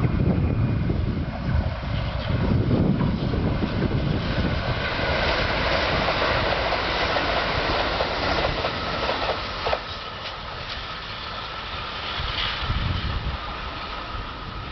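Kintetsu limited-express electric train running past on the rails: a heavy low rumble in the first few seconds gives way to steady running noise that eases off after about ten seconds.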